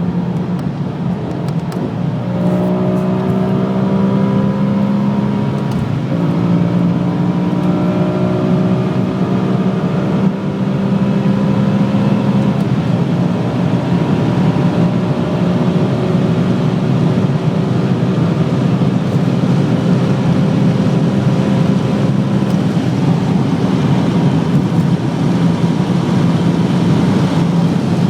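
BMW E63 M6's V10 engine under full-throttle acceleration: the engine note climbs, drops sharply at upshifts about six and ten seconds in, climbs again, then holds a steady high note at top speed over a constant rush of road and wind noise.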